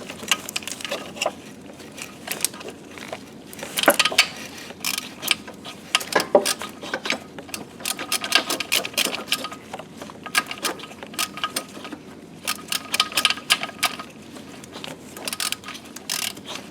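Stubby ratchet clicking in short, irregular runs of strokes as it turns engine mount bracket bolts in a tight space, with light metallic clinks of the tool against the bolts.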